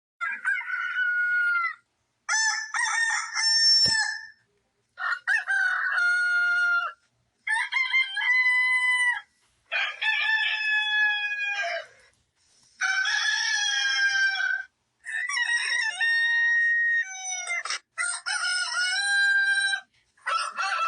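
Rooster crowing sound effect: a cock-a-doodle-doo repeated about nine times, each crow around two seconds long with short silent gaps between.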